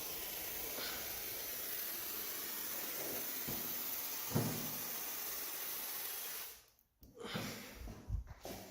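Aerosol can of garage door lubricant spraying through its nozzle in a steady hiss, which cuts off abruptly about two-thirds of the way in. A few soft knocks follow.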